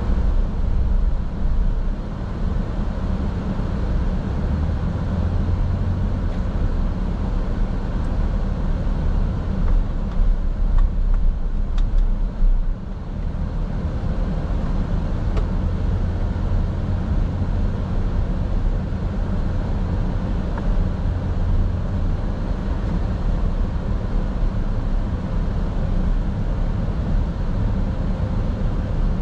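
Car driving: a steady low rumble of road and engine noise heard from inside the car, dipping briefly about halfway through.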